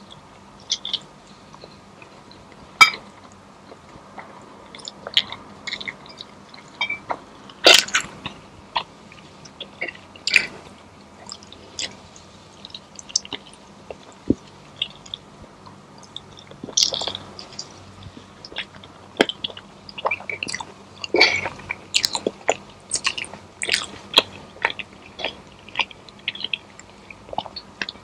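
A person chewing food close to the microphone, with irregular wet mouth clicks and occasional louder crunches.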